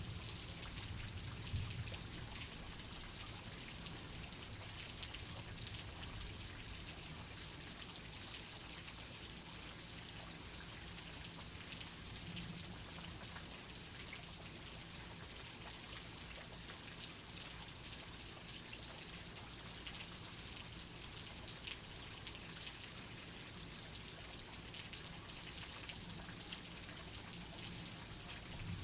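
Steady rainfall, an even patter of raindrops with faint scattered drip ticks.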